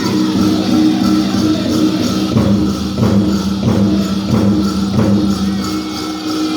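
Powwow drum group singing a dance song, the voices held over a steady, evenly spaced drumbeat of about one and a half beats a second.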